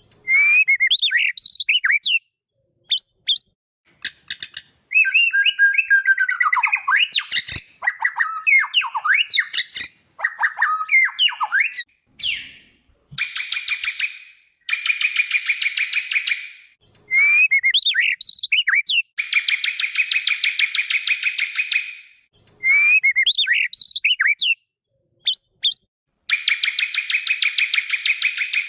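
White-rumped shama (murai batu) singing loud, varied whistled phrases full of quick slurred notes. From about the middle on, the phrases alternate with long, fast, buzzy rattling trills of a second or two each.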